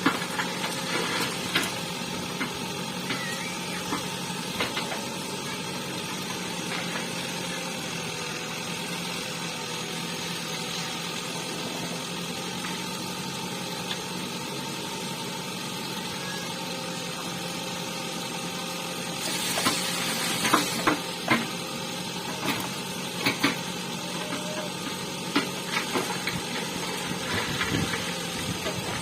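JCB backhoe loader's diesel engine running at a steady speed, with scattered sharp clanks and knocks that come thickest in the last third.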